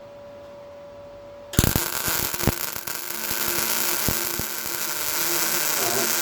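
A faint steady hum, then about a second and a half in a MIG welder's arc strikes and crackles steadily with sharp pops as a bead is laid on car body sheet steel.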